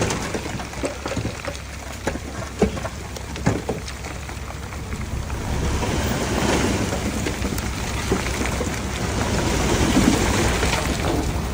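Komatsu D31P bulldozer working: its diesel engine running under a noisy rumble, with scattered knocks and clatter, getting louder about halfway through.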